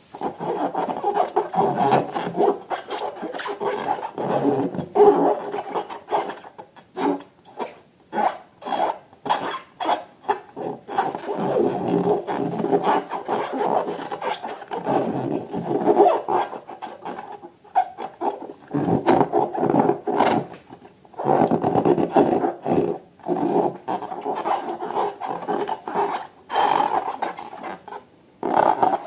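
Rubber balloons being squeezed and handled, giving irregular rubbing and squeaking strokes mixed with short clicks and brief pauses.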